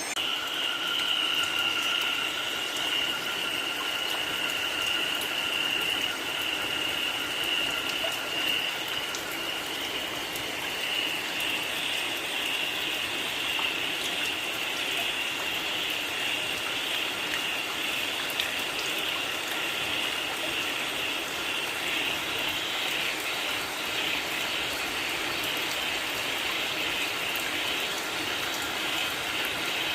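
Steady rain falling, with a continuous high-pitched chorus of calling frogs over it.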